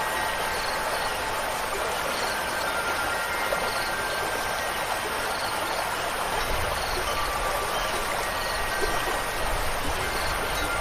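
Steady rushing water, like a stream or heavy rain, with a few faint sustained wind-chime tones ringing out over it. A low rumble joins the water a little past halfway through.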